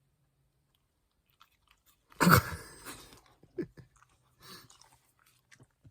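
Shiba Inu mouth noises, lip-smacking and chewing, starting with a loud burst about two seconds in and followed by scattered smaller smacks and clicks.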